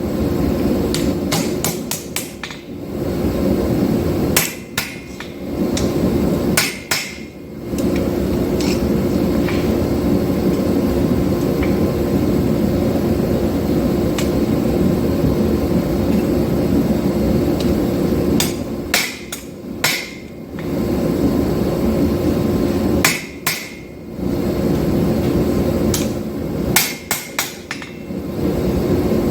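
Power hammer pounding 5160 steel in long runs of fast, steady blows. Short pauses between runs carry a few sharp, ringing metal clanks.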